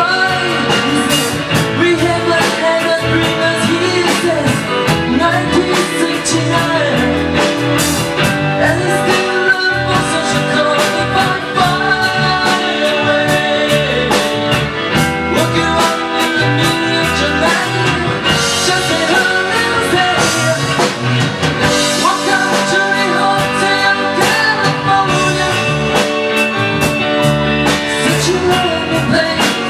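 A band playing a rock song: a singer's voice over electric guitar and a steady drum beat.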